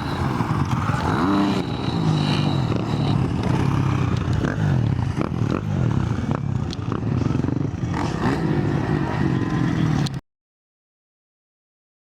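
Motocross dirt bike engines revving up and down as they race. The sound cuts off suddenly about ten seconds in, leaving silence.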